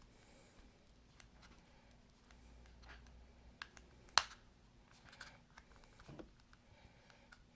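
Small scattered clicks and scrapes of a pry tool working under an iPhone SE's battery, which is held down by strong adhesive, with one sharp, louder click about four seconds in.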